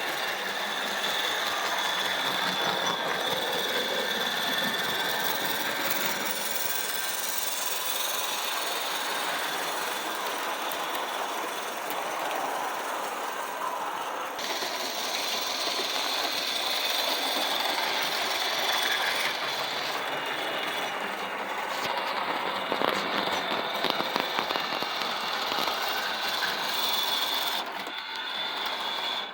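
An O scale model steam locomotive running on its track. The steady whine of its universal motor and gear reduction sits over the rolling rumble and clicking of wheels on the rails. The sound stops suddenly at the end.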